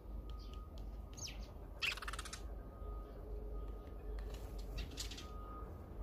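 Small birds calling with short high chirps, and one brief loud rasping burst about two seconds in.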